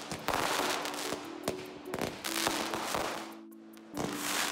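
Aerial fireworks bursting overhead: a dense run of sharp pops and crackles that eases off briefly about three and a half seconds in, then a fresh burst of crackling near the end.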